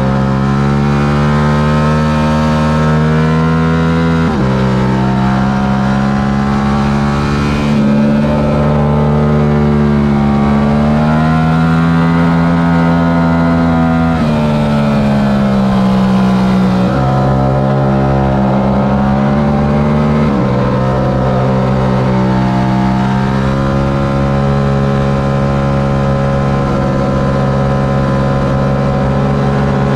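Yamaha R7's stock 689 cc parallel-twin engine running hard at racing speed, its pitch rising and falling. Sudden drops in pitch about four seconds in, and again around seventeen and twenty seconds, mark upshifts.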